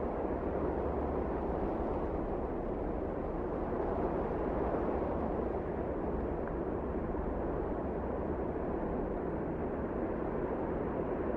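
Strong wind blowing steadily, a low, even rushing noise with no distinct gusts.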